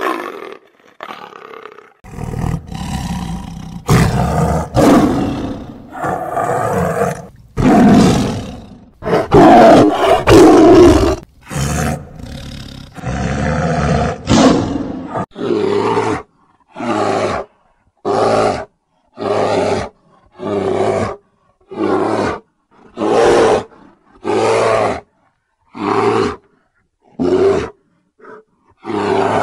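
Big cat roaring: a run of long, loud roars, then from about halfway a series of about a dozen shorter, evenly spaced roars, roughly one a second.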